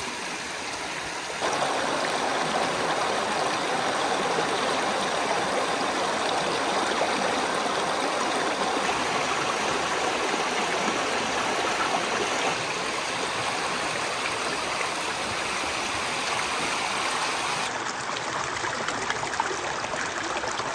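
Creek flowing: a steady rush of running water that steps louder about a second and a half in and changes tone near the end.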